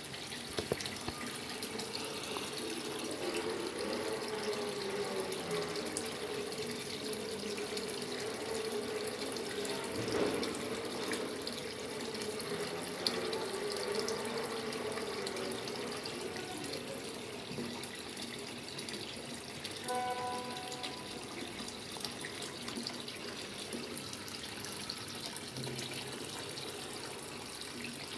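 Water running steadily into a top-loading washing machine's tub as it fills, with a brief pitched tone about twenty seconds in.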